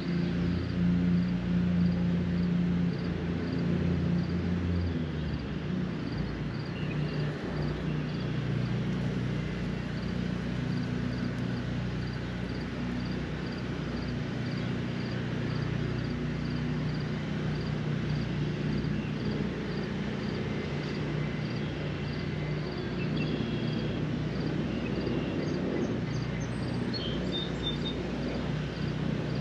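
Steady low drone of an engine, dropping in pitch about five seconds in, with a faint high chirp repeating a little faster than once a second and a few bird chirps near the end.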